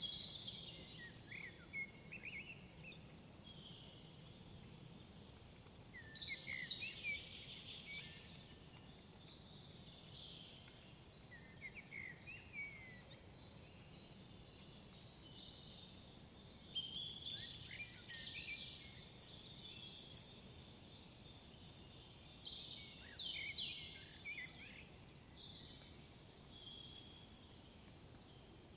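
Songbirds singing in woodland, one bird repeating a short song phrase every five or six seconds, each ending in a high trill, over a faint low background hum.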